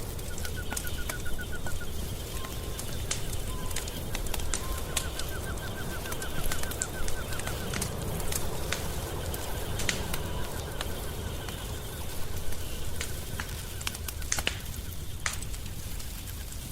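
Wood fire crackling, with irregular sharp pops over a low steady rumble. A rapid high trill sounds in the background several times.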